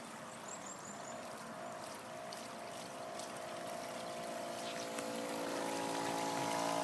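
Radio-controlled model PT boat's motor running at full speed, a steady whine over the rush of water that grows steadily louder as the boat approaches.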